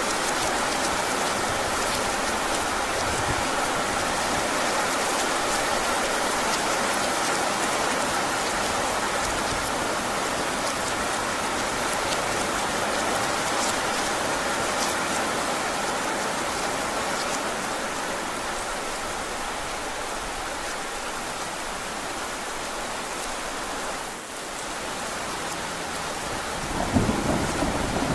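Heavy rain falling steadily, with a low rumble of thunder coming in near the end.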